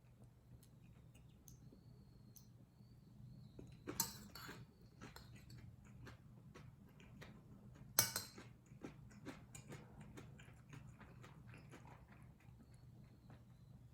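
A person eating kimchi fried rice up close: faint chewing with many small wet mouth clicks. Two louder, brief, sharp sounds come about four and eight seconds in.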